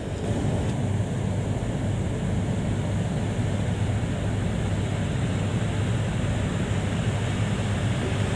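Steady low rumble of an E3 series Shinkansen train set, the Toreiyu Tsubasa, running on the station tracks. It grows slightly louder just after the start.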